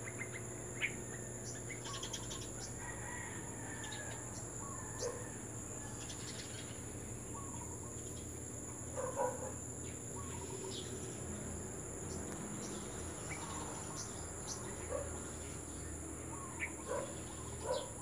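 Several birds calling: short, scattered chirps and calls, with a few louder ones about midway and near the end.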